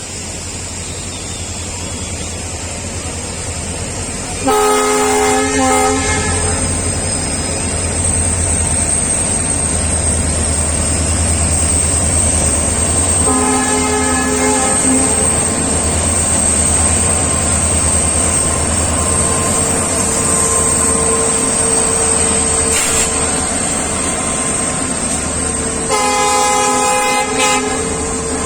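A train running with a steady low rumble while its locomotive horn sounds three times: about four seconds in, near the middle, and near the end, each blast a second or two long with several tones at once.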